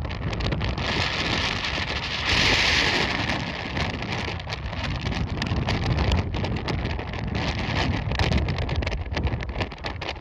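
Blizzard wind buffeting the microphone with a heavy rumble, and wind-driven snow hissing; a stronger gust about two seconds in.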